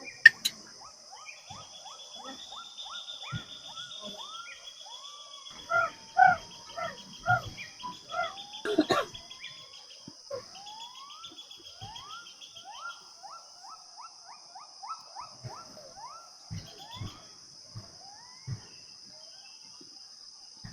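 Forest ambience: a steady high insect drone, with trains of short rising bird calls repeated several times a second. A louder run of calls comes in the middle, and a sharp click sounds just after the start.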